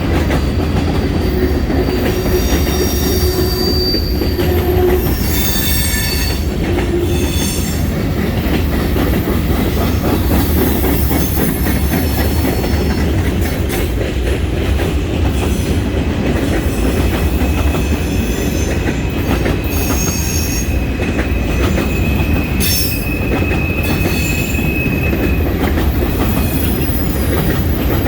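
A long freight train's cars rolling past, steel wheels rumbling on the rail. High wheel squeals come and go, including one long steady squeal in the second half.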